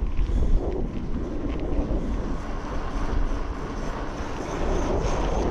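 Wind buffeting the microphone: a steady, rumbling rush of noise, heavy in the lows, with uneven swells.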